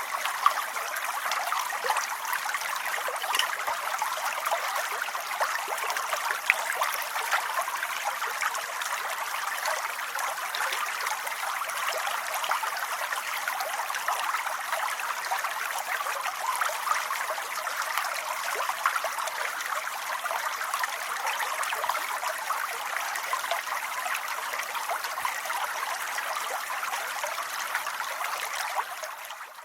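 Steady rain: a dense, even patter of countless small drops, with no let-up until it cuts out suddenly at the very end.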